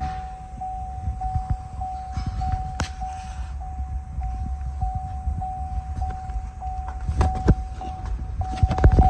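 A steady high electronic tone, swelling slightly about every half second, over a low rumble, with a few sharp clicks about three seconds in and again near the end.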